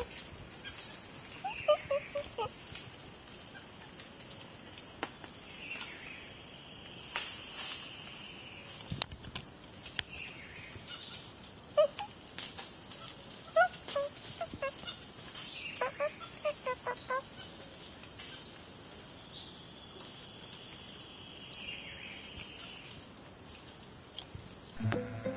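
Rainforest ambience: a steady, high-pitched insect drone throughout, with scattered groups of short chirping animal calls and a few sharp clicks.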